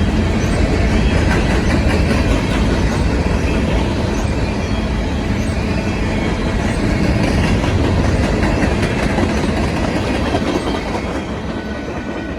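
Freight train cars rolling past, wheels clattering over the rail joints with a heavy rumble. The sound begins to fade about ten seconds in.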